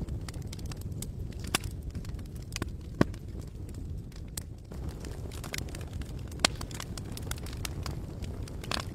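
Campfire crackling: irregular sharp pops and snaps over a steady low rumble, with the loudest pops about one and a half, three and six and a half seconds in.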